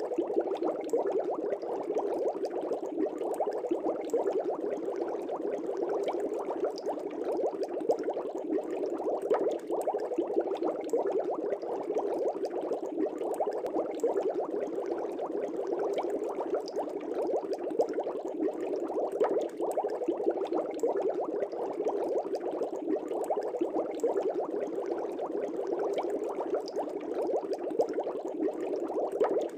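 Air bubbles rising in an aquarium, a steady dense bubbling made of many small pops.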